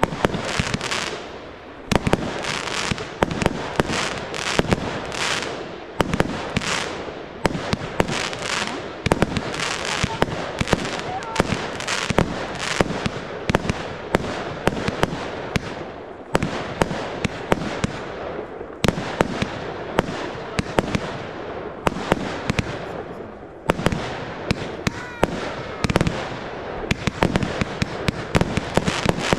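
Fireworks launching and bursting in the sky: a rapid, continuous stream of sharp bangs, several a second, with crackling between them.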